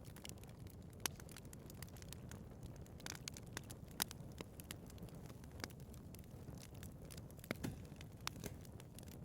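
Wood fire burning in a fireplace: a steady low rumble under frequent sharp crackles and pops of burning wood, with a few louder snaps scattered through.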